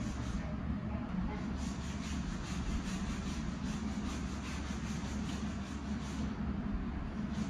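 A steady low machine hum, with rhythmic rubbing strokes, about two or three a second, running through the middle few seconds over it.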